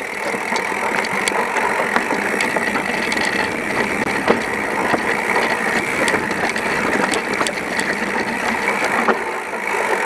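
Mountain bike rattling over a rough trail, a continuous clatter of small clicks and knocks from the bike.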